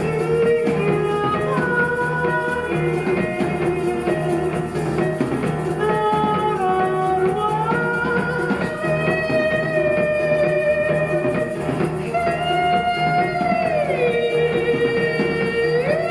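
Live ensemble music: a slow melody of long held notes that slide from one pitch to the next, over rattling percussion and strings.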